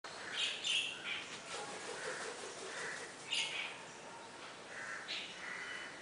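Birds calling: short groups of chirps and whistled notes, the loudest near the start, with more about every one to two seconds.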